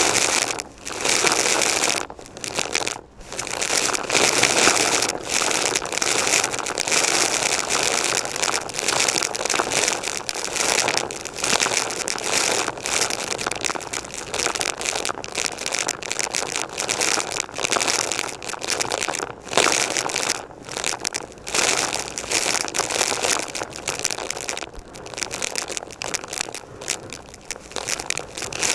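Vacuum cleaner running while sucking up crunchy debris, with dense crackling and crinkling and brief dips in level every few seconds.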